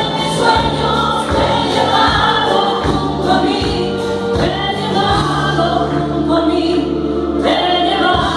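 Music from a live song performance: a band playing with sustained notes over a steady bass line and beat.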